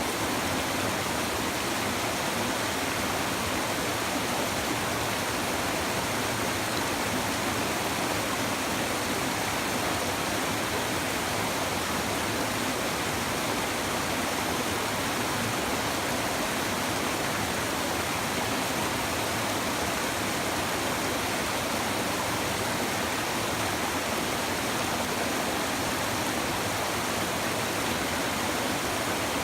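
A babbling stream: water running and splashing over rocks, a steady rushing sound with no change.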